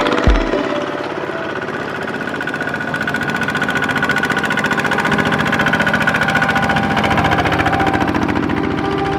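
A farm machine's engine running steadily with a rapid, even beat of firing pulses. A heavy beat of background music stops about half a second in.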